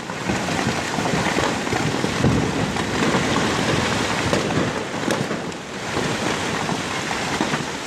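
Loud, steady rushing noise of turbulent floodwater and wind, easing a little about two thirds of the way through.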